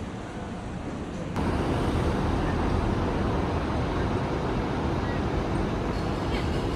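Steady road traffic noise, without a clear engine note standing out; it jumps abruptly louder about a second and a half in.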